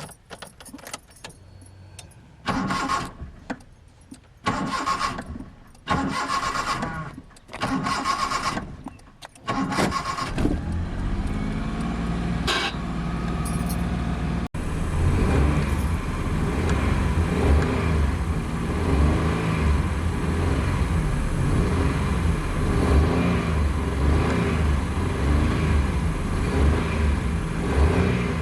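Car starter cranking the engine in four short bursts of about a second each. About ten seconds in the engine catches and keeps running, and from about halfway it is revved repeatedly, its pitch rising and falling.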